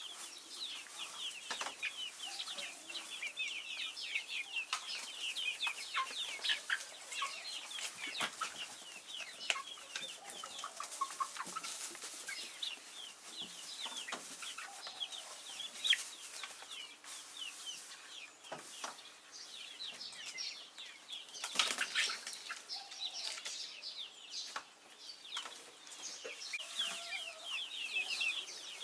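Many young chicks peeping continuously, a dense chorus of short, high, falling cheeps. Scattered rustles and knocks run through it, the loudest about 22 seconds in.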